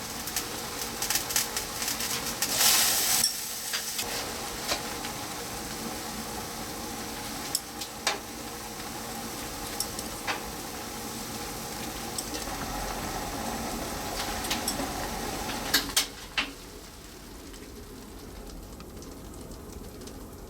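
Food cooking in a pan or pot: a steady sizzling hiss with scattered sharp clinks of utensils against cookware, and a louder rush about three seconds in. The hiss gets quieter about sixteen seconds in.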